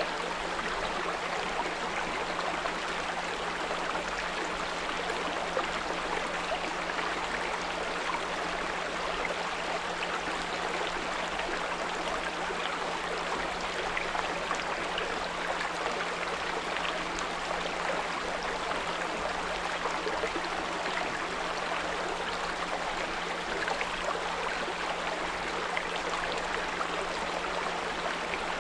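A small brook running steadily over stones, with a continuous low 174 Hz pure tone humming beneath the water.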